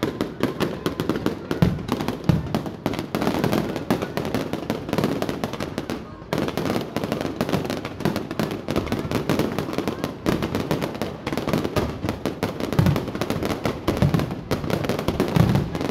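Fireworks going off in rapid succession: a dense crackle of many sharp pops, with a few deeper thumps among them.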